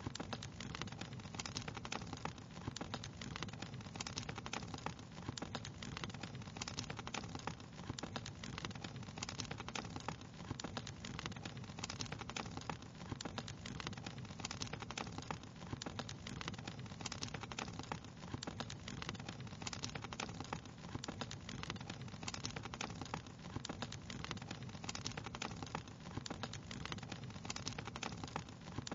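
Wood fire crackling steadily, with dense, irregular small snaps and pops over a soft, even hiss.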